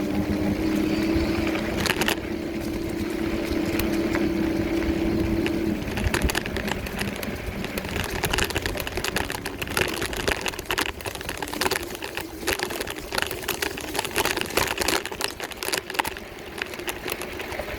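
A small vehicle's motor running with a steady hum that fades about six seconds in, followed by irregular rattling and clicking as it rolls along the trail.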